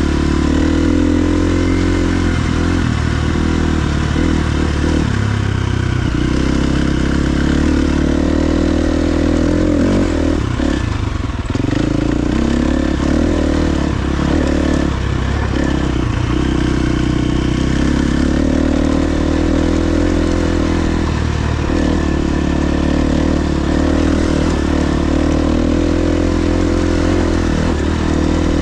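KTM 350 XC-F dirt bike's single-cylinder four-stroke engine running under way, its pitch rising and falling with the throttle, with a short easing-off about eleven seconds in.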